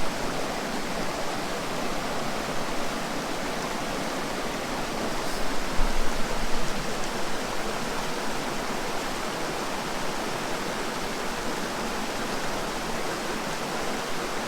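Steady rush of a fast-flowing mountain stream, with a brief low rumble about six seconds in.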